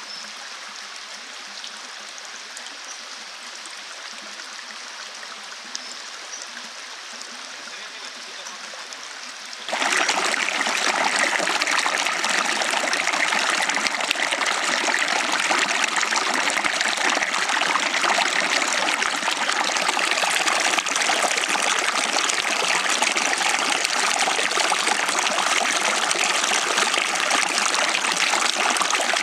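A small stream flowing and trickling over its bed, a steady rush of water. About ten seconds in it jumps suddenly much louder and stays that way.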